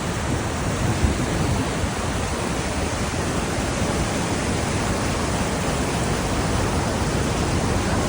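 Steady rushing of Victoria Falls, a large waterfall on the Zambezi River, with its heaviest energy at the low end.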